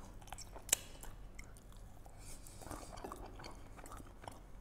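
A man chewing a mouthful of saffron chicken kebab: faint, soft chewing with small mouth clicks, and one sharper click under a second in.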